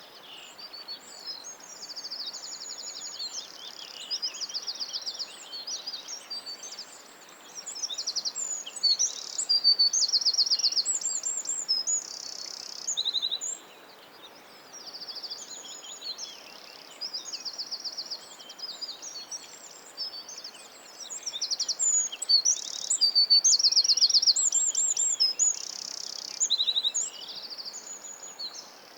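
Songbirds singing: a near-continuous string of rapid trills and chirped phrases from more than one bird, over a faint steady background hiss.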